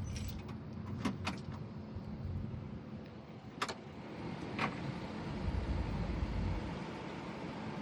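Kubota broom tractor engine running steadily, heard from inside the cab, with a few sharp clicks and knocks from the cab's door and controls.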